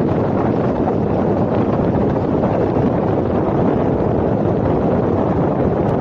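Steady wind rush on the camera microphone mixed with the road and engine noise of a vehicle moving through city traffic.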